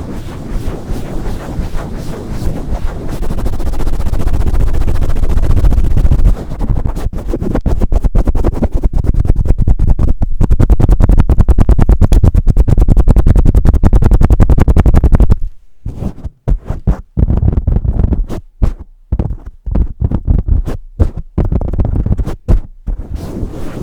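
Fast, hard rubbing and scratching strokes on a Blue Yeti microphone and its mic cover, very close and loud. A dense, continuous rush for about fifteen seconds, then it breaks into quick separate strokes with brief silences between them.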